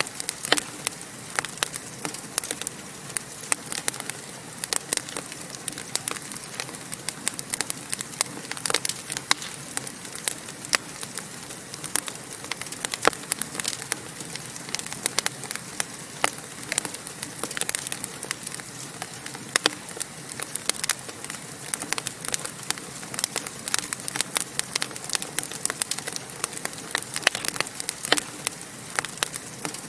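Wood fire burning in a fireplace, crackling steadily with frequent sharp, irregular pops over a soft hiss.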